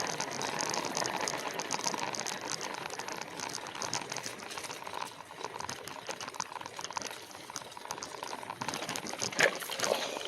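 E-bike rolling along a narrow dirt trail: a steady crackle and rattle from the tyres and frame, with a sharper knock about nine seconds in, typical of riding over roots.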